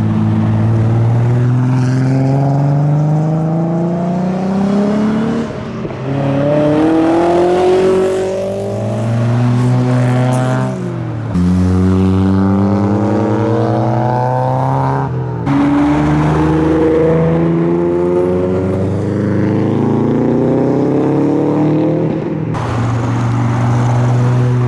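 Modified cars' engines accelerating away from a car show. The engine note rises in pitch, drops, and climbs again about four times, with no let-up in loudness.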